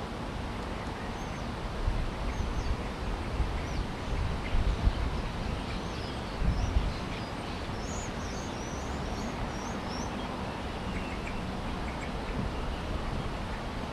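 Small bird chirping in quick, high twitters over a steady background hiss, with a few low thumps in the first half.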